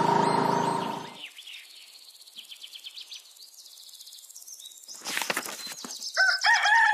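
Backing music of a children's song fading out in the first second, then birds chirping softly in short high chirps, with a brief rushing noise about five seconds in. A melody of held notes starts near the end.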